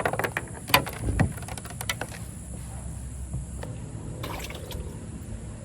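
Water splashing beside a kayak, with a run of sharp knocks and splashes in the first two seconds, then quieter water sounds and one more short noise about four seconds in.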